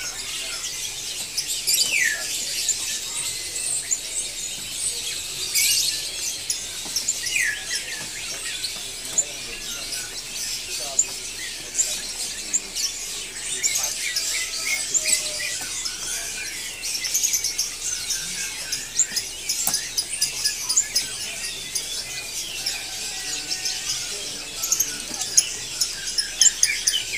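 Many caged songbirds chirping and twittering at once: a dense, continuous chatter of short high chirps with a few gliding whistled notes mixed in.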